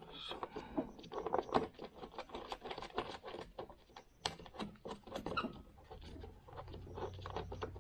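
Irregular light clicks, taps and rattles of snowblower parts being handled and fitted by hand. A low steady hum comes in about two-thirds of the way through.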